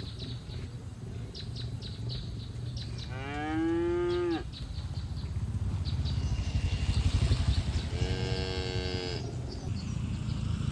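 Cattle mooing: two drawn-out moos, one about three seconds in and another about eight seconds in, each lasting just over a second, over a steady low rumble.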